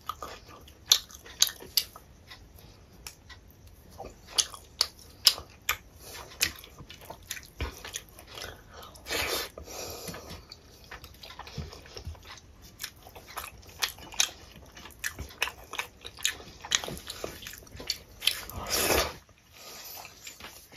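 Close-miked eating by hand: chewing of rice and dal with frequent wet mouth clicks and smacks, and fingers working rice on a steel plate. Two longer rustling bursts come about midway and near the end.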